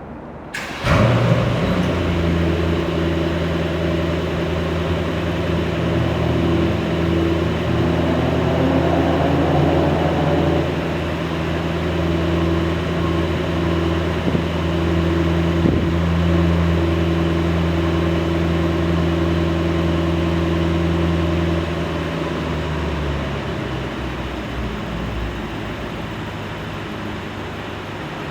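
Mercedes-AMG E63's twin-turbo V8 starting from cold. It catches suddenly about a second in and settles into a steady, loud, high cold-start idle. About 22 seconds in, the idle drops to a lower, quieter speed.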